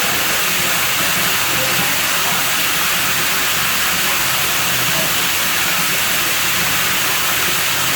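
Water rushing steadily at a pool, a constant even hiss with no breaks.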